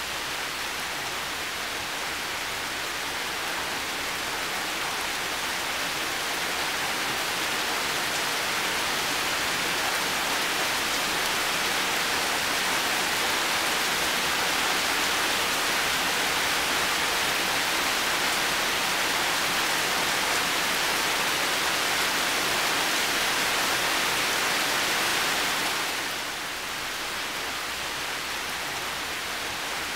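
Heavy rain falling steadily, a dense even hiss that slowly grows louder and then drops back suddenly near the end.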